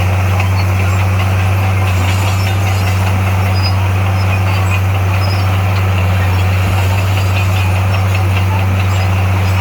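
Heavy diesel engine of earthmoving equipment running steadily, a constant low drone with no change in speed.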